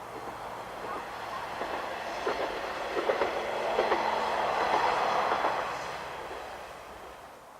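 KiHa 120 diesel railcar passing by, its wheels clattering over the rail joints. The sound builds to a peak about four to five seconds in, then fades away.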